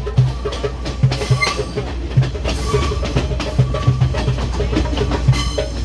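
A passenger train running along the track, with a steady rumble and the wheels clacking over the rail joints, under background music.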